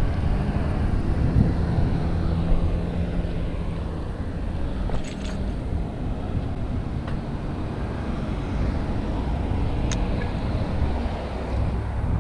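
Wind rumbling over a bike-mounted GoPro Hero 5 Black's microphone along with riding noise as the mountain bike rolls along. A low hum runs through the first few seconds.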